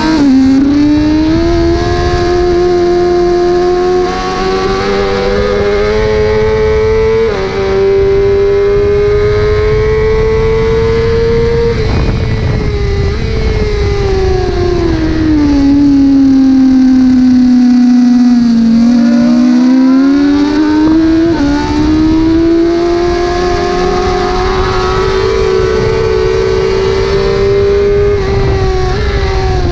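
Onboard sound of a 1000 cc superbike racing on track, engine running hard under wind rush. The engine note climbs with a shift about 7 s in, drops away from about 12 s to 18 s as the bike slows for a corner, then climbs again as it accelerates.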